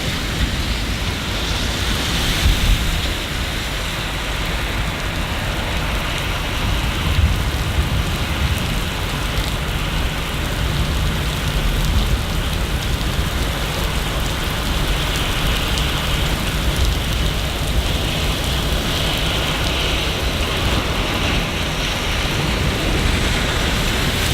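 Steady rain falling, an even dense hiss with a continuous low rumble underneath.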